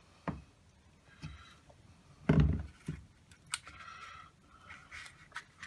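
Handling noises at a workbench: a few scattered clicks and one heavier knock a little over two seconds in, with faint rustling between them.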